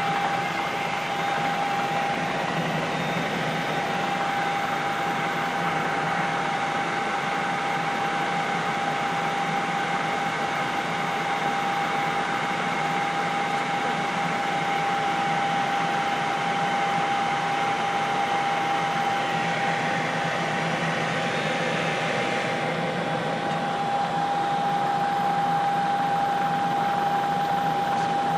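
Steady helicopter noise heard inside the cabin: an even rushing hum with one constant high tone running through it.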